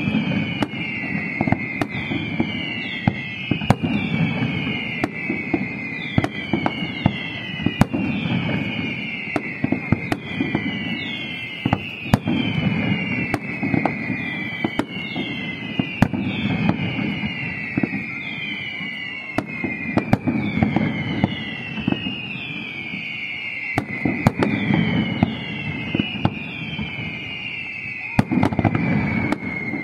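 Fireworks display: a continuous run of sharp bangs and crackles over a dense low rumble. A high whistle that falls in pitch repeats evenly, more than once a second, throughout.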